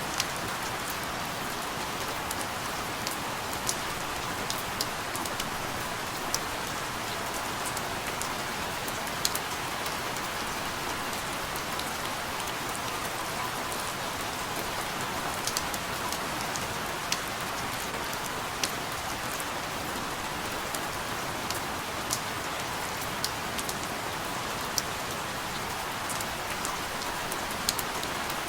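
Steady rain falling, a constant even hiss with scattered sharp drop ticks landing on a surface.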